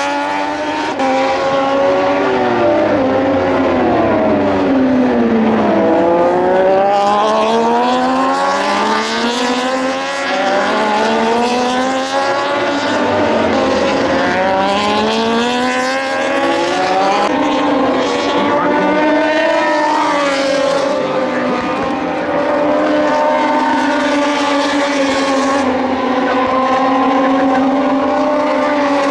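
Several Moto2 racing bikes' Triumph 765 cc three-cylinder engines at race speed, overlapping. Their pitch repeatedly falls and climbs as they brake, shift down and accelerate through the gears. In the last several seconds the sound becomes a steadier drone.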